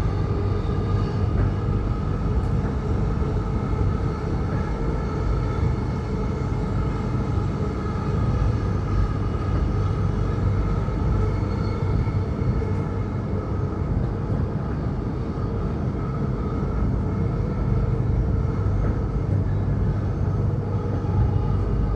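Electric suburban train running between stations, heard from on board: a steady rumble of wheels on track with a constant hum.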